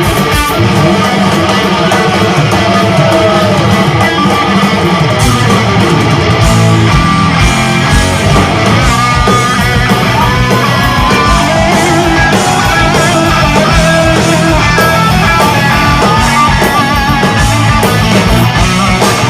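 Live heavy metal: a distorted electric guitar plays a fast lead solo full of string bends and vibrato, over pounding drums and bass.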